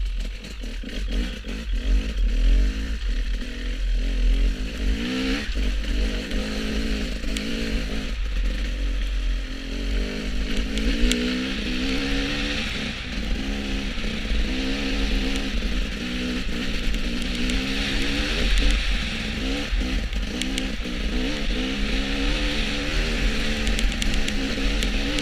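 Motorcycle engine running under way, its pitch rising and falling again and again with the throttle, over heavy wind rumble on the microphone and a steady rushing hiss of wind and road.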